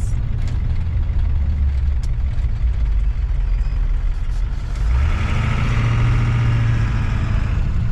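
Road and engine noise of a moving pickup truck: a steady low rumble, with a louder, higher-pitched whir joining about five seconds in.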